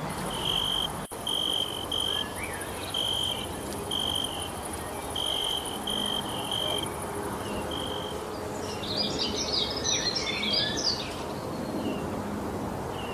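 Cricket chirping in short repeated notes over a steady high insect hiss, with a brief burst of bird chirps near the end.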